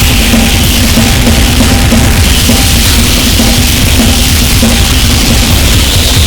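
Harsh noise music: a dense, very loud wall of distorted electronic noise at a steady level, with a drum kit played underneath it.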